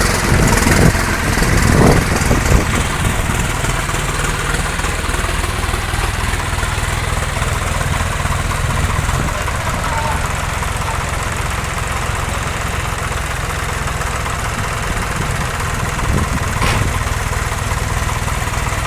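Tractor diesel engine idling steadily, with a low, even rumble. It is a little louder in the first couple of seconds, and there is one short click near the end.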